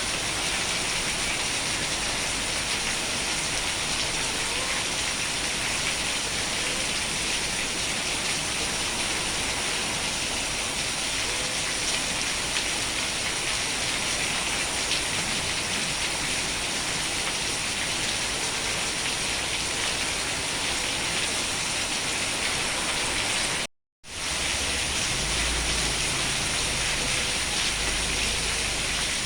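Steady rain falling, a dense even hiss of drops. Near the end it cuts out completely for a split second, then returns with a low rumble underneath.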